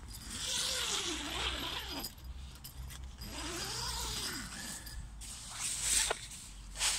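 Mil-tec Recom 1 tent's fabric being handled: two long rasping, rustling strokes, each about a second and a half, then a couple of sharp clicks near the end.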